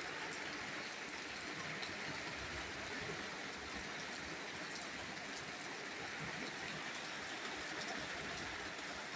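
Steady rain falling: an even hiss with a few scattered drop ticks in the first couple of seconds.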